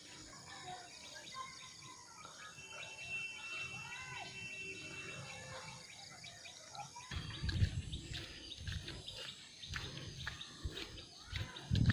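Birds chirping and calling with many short repeated notes. From about seven seconds in, low rumbling knocks come in underneath, typical of wind or handling on a phone microphone.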